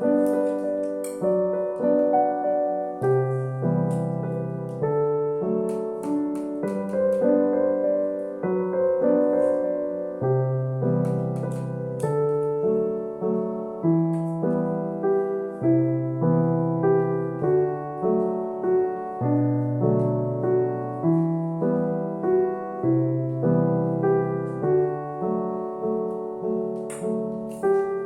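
Background piano music, a slow instrumental with chords changing every second or two over a repeating bass line.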